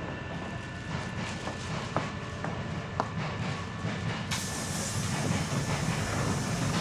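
Hankyu 7300 series electric train with field-chopper control running on the rails, a steady low rumble from its running gear with sharp clicks of the wheels over rail joints or points about once a second. About four seconds in, a loud hiss of air starts suddenly.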